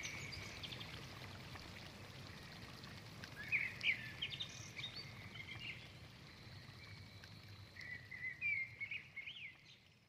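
Small birds chirping in short, quick calls, in two bursts about three seconds in and about eight seconds in, over a faint low background hiss; the sound cuts off suddenly just before the end.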